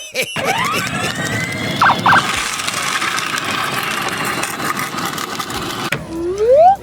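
Vehicle sound: a whine rising in pitch as it speeds up, then a steady squealing run. Two short beeps come about two seconds in, and the sound cuts off suddenly about six seconds in.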